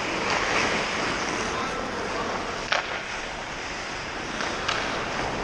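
Ice hockey rink noise: skates scraping the ice, with a sharp stick-or-puck clack a little under three seconds in and another near the end.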